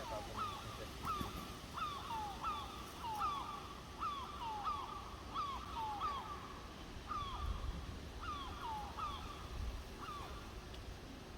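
Young crows calling over and over: short falling calls, about two a second and partly overlapping, from more than one bird.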